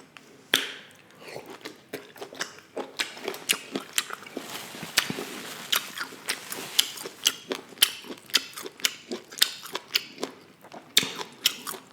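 A person chewing and eating close to the microphone: a dense run of short wet clicks and smacks, several a second, busiest in the middle.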